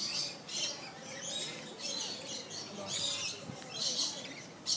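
A flock of parrots calling: short shrill screeches and chirps, one after another, several each second.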